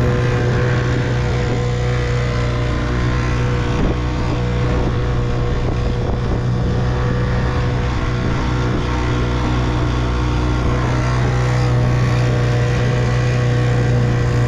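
1958 Evinrude 3 hp two-stroke outboard motor running at a steady speed, pushing the boat along.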